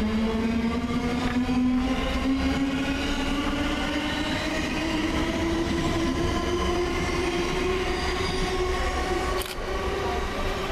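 Class 700 electric multiple unit's traction motors whining, the whine slowly rising in pitch as the train accelerates, over rumble from its wheels on the rails. A sharp click about 9.5 s in, after which the sound is a little quieter.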